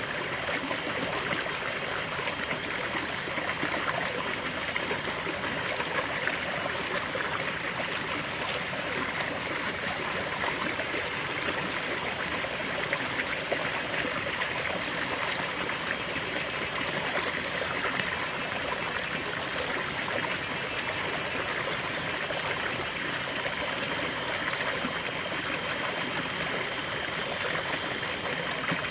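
Small forest waterfall and stream flowing, a steady rush with splashing and trickling.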